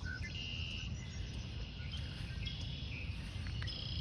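Outdoor bird chorus: several short, high, steady-pitched chirps and trills over a steady low rumble of wind on the microphone.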